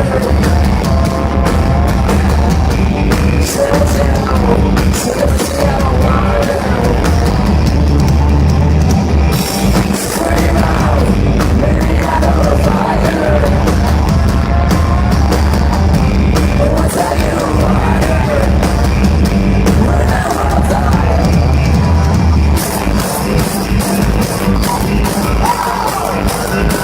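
Live rock music played loud through a concert PA: heavy bass and a drum kit under electric guitar, with a little singing. The heavy bass drops out about four seconds before the end.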